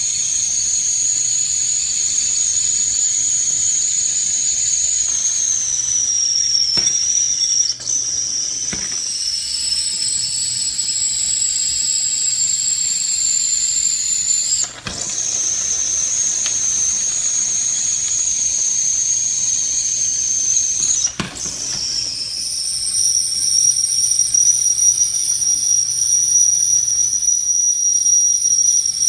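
Stainless steel whistling tea kettle (Willow & Everett) whistling at the boil: a steady high-pitched squeal whose pitch steps down and back up a few times, with brief breaks. Steam escapes past its loosely seated lid, which the owner blames for the single squeal in place of a harmonic whistle.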